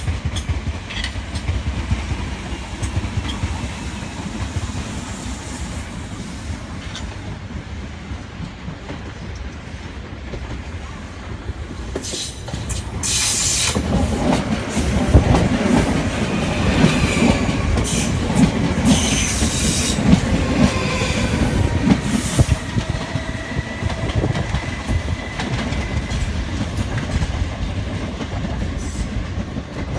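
South West Trains electric multiple units running through the station, wheels clattering over the rail joints. The rumble grows loud about halfway through as one passes close, and a thin wheel squeal runs under it toward the end.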